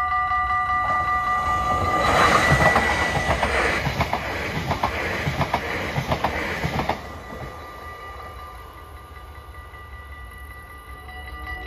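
Dutch NS Sprinter electric passenger train passing close by, with a loud rush and regular wheel clacks over the rail joints for about five seconds before it fades. A level-crossing warning bell rings at the start and faintly again near the end.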